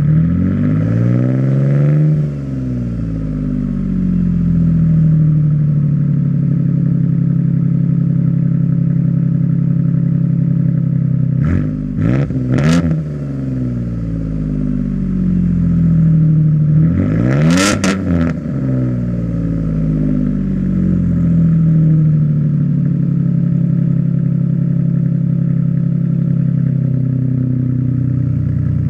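1998 Mercury Sable GS's 3.0 L V6, straight-piped with no mufflers, idling loud through the open exhaust and being revved. It revs once at the start, blips three times quickly about twelve seconds in, and gives a bigger rev a few seconds later before settling back to idle.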